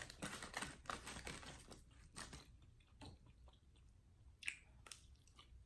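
Close-up chewing of crispy fried food: a run of quick crunching clicks for the first two seconds or so, then sparser ones, with one louder crunch about four and a half seconds in.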